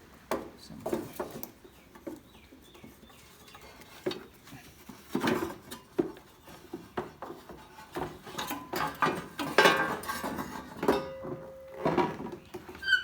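Irregular metallic clinks, taps and knocks of hand tools and small screws as a tractor's dashboard panel is unscrewed and worked loose. A brief steady hum comes in near the end.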